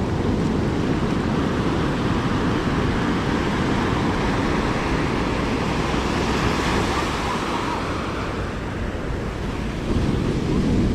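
Ocean surf washing on the beach, one wave swelling up about six seconds in, with wind rumbling on the microphone.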